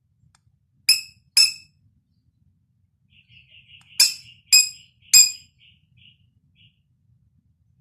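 Sharp, ringing clinks of a cockatiel pecking at its mirror toy: two about a second in, then three more close together around four seconds in. Between them comes a faint run of soft, high chirping sounds.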